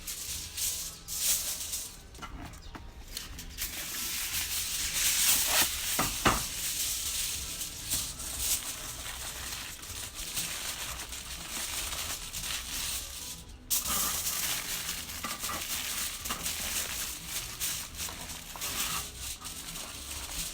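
Wood campfire crackling, with frequent sharp pops and snaps over a steady hiss.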